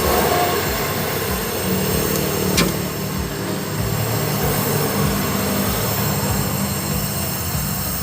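Gas welding torch flame running steadily while it heats a patch on a punctured refrigerator evaporator so the filler rod will fuse, with one sharp tick a few seconds in.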